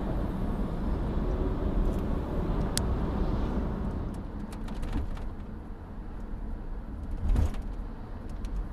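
Road and engine noise of a moving car, a steady low rumble, heard from inside the cabin, with a few light ticks and a single knock about seven seconds in.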